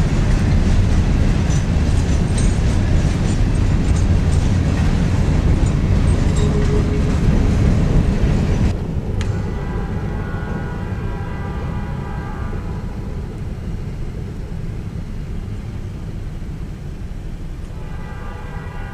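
Loaded freight train's hopper cars rolling past, a loud rumble with wheel clicks over the rail joints. About nine seconds in it cuts to a quieter passing train at a grade crossing, its rumble carrying steady ringing tones that fade out and return near the end.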